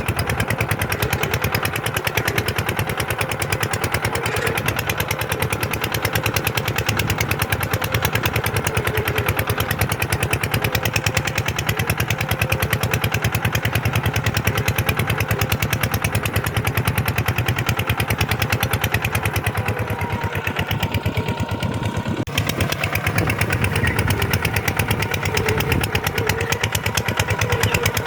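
Kubota tractor's diesel engine running steadily under load while plowing, with a fast, even firing pulse; it eases slightly about two-thirds of the way in, and a single sharp click sounds shortly after.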